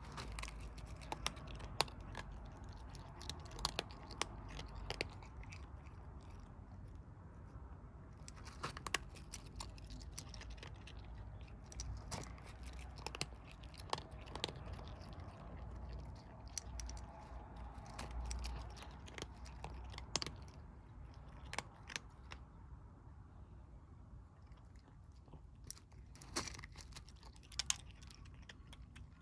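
Stray kittens chewing their food: a quick, irregular run of small clicks, over a low steady rumble.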